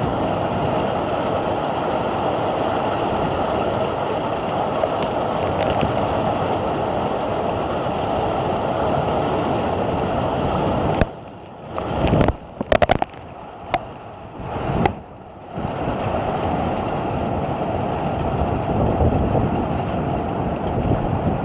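Heavy thunderstorm downpour, a dense steady rush of rain. About halfway through it drops away for some four seconds, with a few sharp cracks, then comes back as before.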